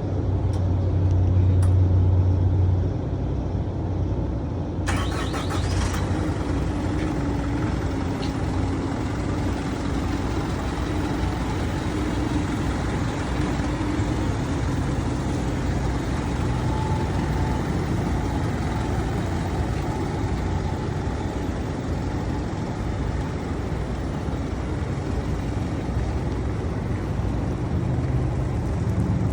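Isuzu NRR van truck's turbo diesel engine running steadily at idle, a little louder for the first few seconds, with a brief hiss about five seconds in.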